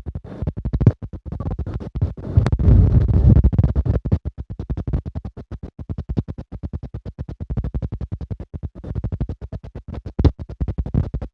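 Jet airliner cabin noise during the landing, broken up into rapid stuttering pulses about ten times a second, with louder low rumbling surges a couple of seconds in.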